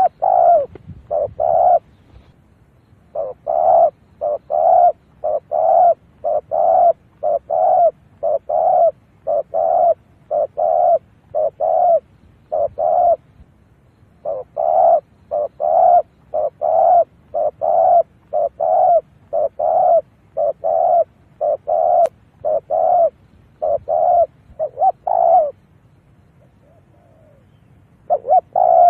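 Spotted dove cooing, a decoy call used to lure wild doves: long runs of short, low coos at about two a second, broken by a few pauses of a second or two.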